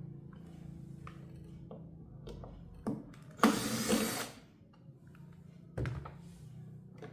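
A steady low electrical hum, with scattered clicks and knocks of parts being handled. About three and a half seconds in comes a loud scraping, rustling burst lasting about a second, and a sharp knock follows near six seconds.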